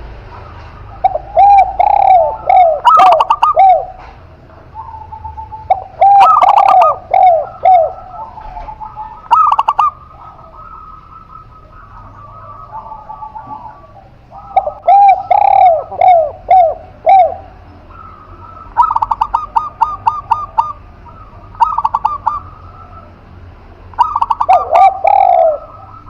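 A spotted dove and a zebra dove cooing in repeated bouts, about five in all. The calls mix lower arching coo notes with quicker runs of higher, clipped notes, and there are short quieter gaps between the bouts.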